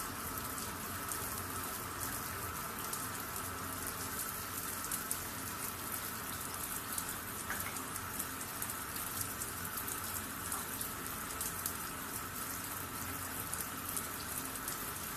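Steady patter of water, like running or spraying water, with fine crackling through it and a faint steady high tone.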